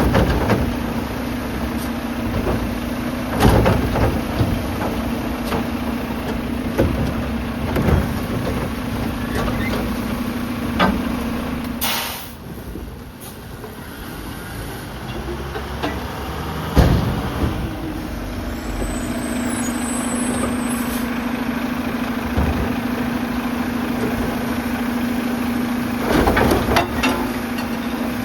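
Mack LR garbage truck with a New Way Sidewinder side-loader at work: the engine and hydraulics hum steadily, with several bangs and clatters from the loading arm and cans, and a short burst of air hiss partway through.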